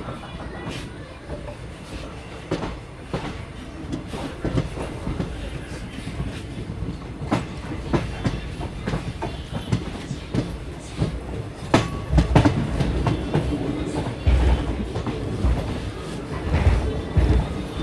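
Train running on rails: a steady low rumble with irregular clicks and knocks of the wheels, and heavier thumps about twelve seconds in and again near the end.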